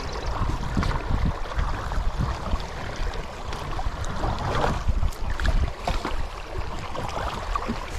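Kayak paddle strokes dipping and splashing in calm water, with wind buffeting the microphone.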